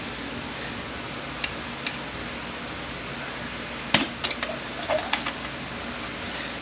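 Small metal transmission parts and hand tools clicking and clinking on a workbench: two light clicks, then a quick run of sharp knocks and clinks about four seconds in, over a steady shop hiss.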